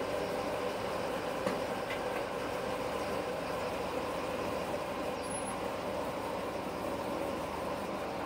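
1976 Corvette's 350 small-block V8 running steadily at low revs as the car is driven slowly into position.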